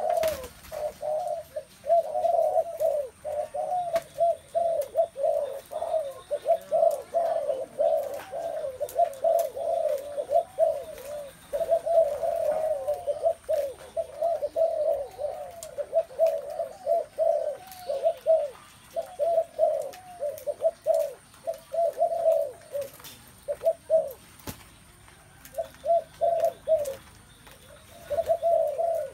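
Spotted doves cooing almost without pause, several low coos overlapping, with a few short breaks near the end. These are the bowing coos a dove gives while chasing the other doves.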